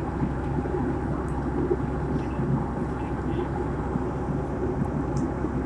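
Steady drone of a passenger airliner in flight heard inside the cabin: engine and airflow noise at a constant level.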